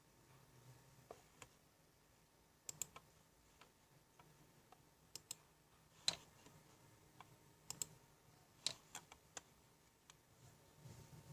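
Scattered light clicks and taps, a dozen or so at uneven intervals, several in quick pairs, over near silence.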